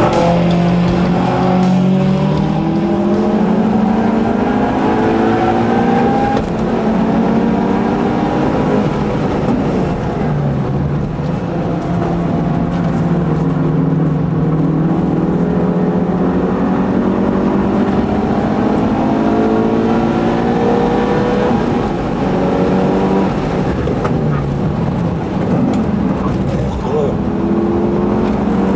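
Mitsubishi Lancer Evolution VIII's turbocharged four-cylinder engine heard from inside the car on track. Its revs climb under hard acceleration and drop back at each gear change or lift, over and over.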